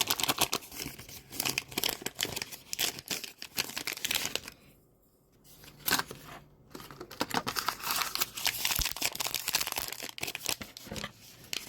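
Plastic packaging crinkling and tearing as small toy parts are unwrapped by hand, with a brief pause about halfway through.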